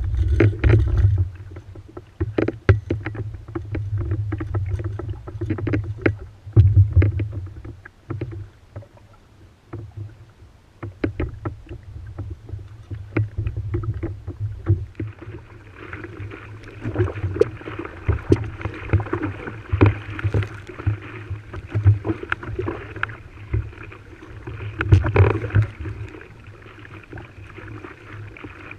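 Water splashing and slapping against the hulls of a sailing outrigger canoe (proa) under way, with gusty wind rumbling on the microphone. A steadier rush of water joins in about halfway through.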